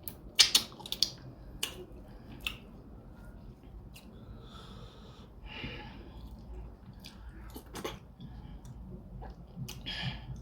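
Close-up eating of fufu with soup: wet mouth smacks and chewing, with several sharp clicks in the first second and a noisy breath around the middle.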